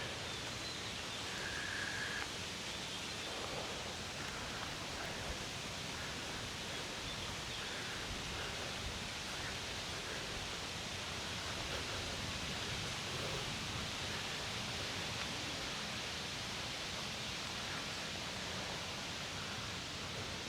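Steady outdoor background noise, an even hiss-like rustle of open air and foliage, with one brief faint high note about a second and a half in.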